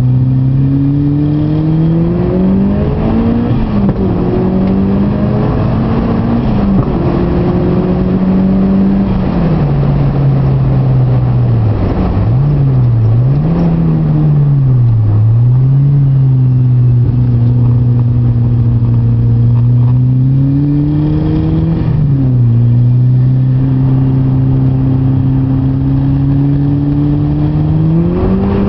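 Mitsubishi Lancer Evolution IV's turbocharged 2.0-litre four-cylinder engine, heard from inside the cabin while lapping a track. It runs hard, its pitch climbing and then dropping back at each upshift, with a run of quick drops and rises near the middle, then holds steady before pulling up again near the end.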